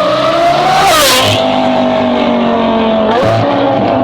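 Car engine accelerating through the gears: its pitch climbs, drops sharply with a short noisy burst about a second in, holds steady, then dips again with another short burst near three seconds, like a second shift.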